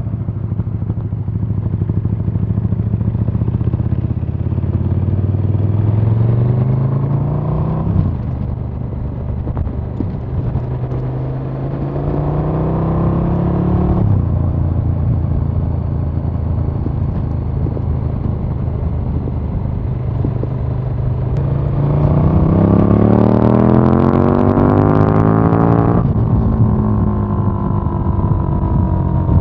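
KTM 1290 Super Duke R's V-twin engine under way: it runs steadily, then the revs climb three times and drop sharply at the top of each climb. The last climb, about two-thirds of the way through, is the loudest.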